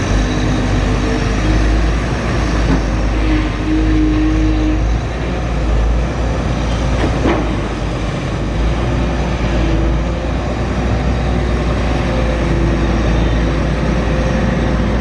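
Excavator's diesel engine and hydraulics running steadily under load, with a low rumble and a few held whining tones that come and go. There is a single knock about seven seconds in.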